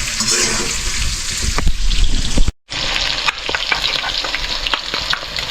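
Bird meat and onion sizzling as they fry in a pan, with the ticks and scrapes of stirring. The sound cuts out completely for a moment about two and a half seconds in, then the sizzling goes on.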